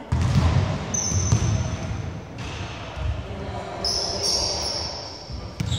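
Basketball bouncing on a wooden gym floor, with irregular dull thumps. Short high squeaks, typical of sneakers on a hardwood court, come about a second in and again near four seconds in.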